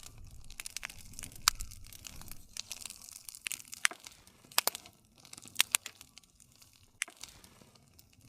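Wood fire crackling: irregular sharp pops and snaps of burning wood over a soft low rumble of flame.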